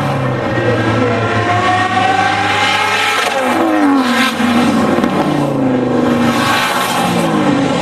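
High-performance V8 car engine revving hard, its pitch climbing and then dropping several times as it runs through the revs.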